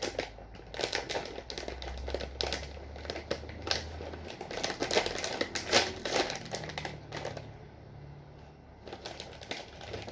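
Foil-lined potato crisp bag crinkling and crackling in a run of sharp, irregular crackles as it is handled and pulled open.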